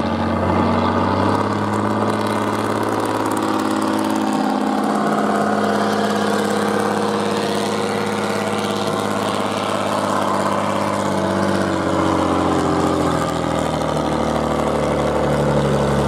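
Heavy truck engine running steadily under load, its pitch shifting a little as the revs change.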